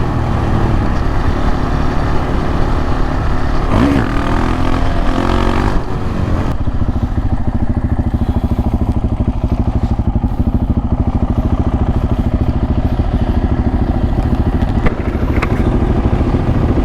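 KTM 690 Duke R's single-cylinder engine running under the rider, mixed with wind noise. About six seconds in the wind noise drops and the engine settles into an even, low pulsing beat, as at low speed or idle.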